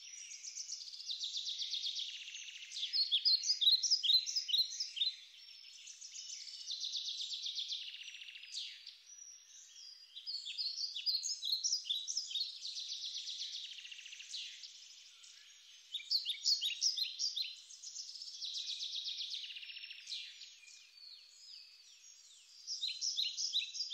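A songbird singing in repeated phrases, each mixing a fast trill with a run of short chirping notes, with a new phrase every few seconds.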